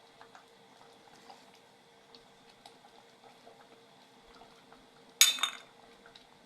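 Faint ticking of a pot of curry simmering, then about five seconds in a short, loud metallic clatter: a utensil knocking against the pot.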